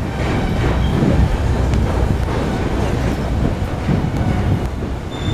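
Tobu Ryomo limited express train rumbling steadily across a steel truss railway bridge as it comes into Asakusa station.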